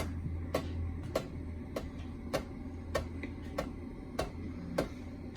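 Hampton Bay Landmark ceiling fan running on medium speed, wobbling badly: a steady low hum with a sharp, regular tick a little under twice a second.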